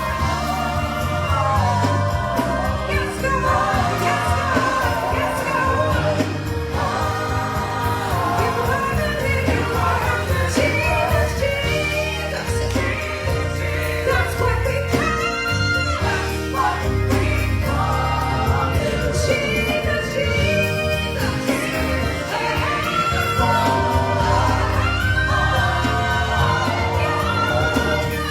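A choir singing a gospel song with full band accompaniment: steady bass and drums under sung voices.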